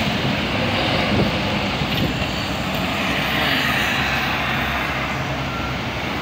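Heavy road vehicle's engine running with tyre and road noise, a steady drone that eases slightly toward the end.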